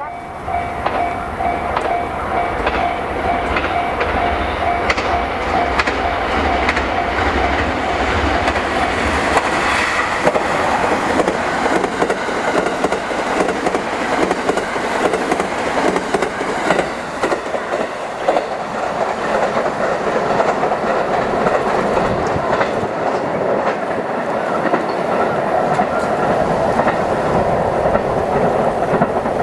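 Train running past at close range, its wheels clicking over the rail joints. A steady tone is heard over the running noise for roughly the first ten seconds, then fades.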